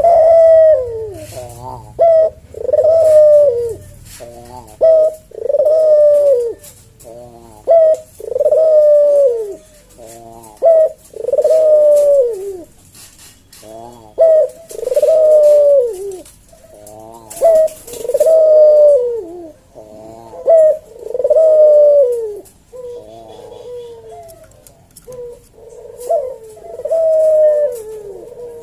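Javanese puter dove (ringneck dove) cooing its 'kuk deruk' song in a slow, widely spaced rhythm. Each phrase is a short note followed by a long coo falling in pitch, repeated about every three seconds.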